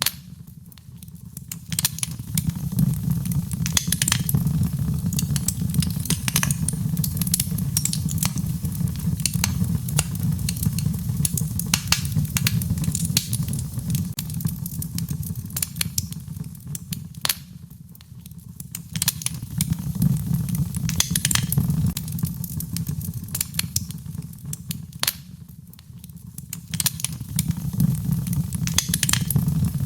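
Wood fire in a fireplace crackling, with frequent sharp pops and snaps over a steady low rumble of flame. It dips briefly quieter three times.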